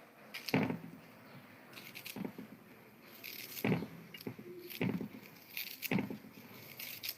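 A person biting and chewing crunchy food close to the microphone, giving irregular crisp crunches with short pauses between them.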